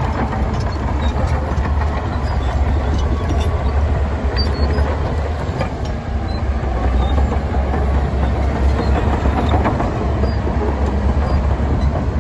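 Diesel engine of heavy earth-moving machinery running steadily with a deep rumble, with scattered small clicks and knocks over it.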